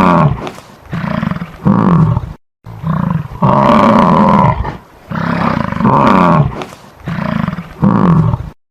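A big cat roaring and growling in a run of calls, each about a second long with short gaps between them. The calls stop abruptly just before the end.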